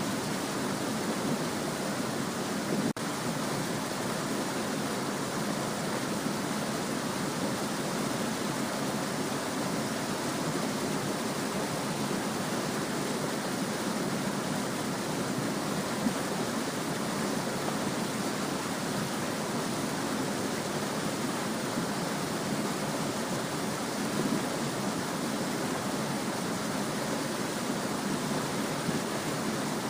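A small stream babbling steadily, an even, continuous rush of flowing water with a momentary dropout about three seconds in.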